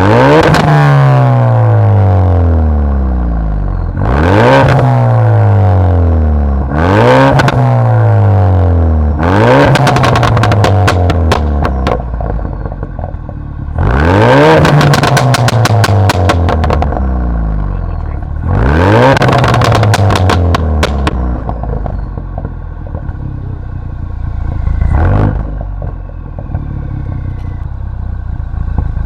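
Ford Focus RS MK3's turbocharged 2.3-litre four-cylinder being free-revved through an aftermarket exhaust: six sharp blips, each climbing quickly and falling back, then a smaller blip near the end. From the fourth rev on, the exhaust crackles and pops as the revs drop.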